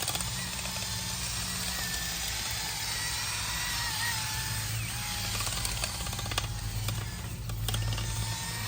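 DeWalt power drill running steadily with a slightly wavering whine, spinning a flexible dryer vent cleaning rod and brush through the vent line.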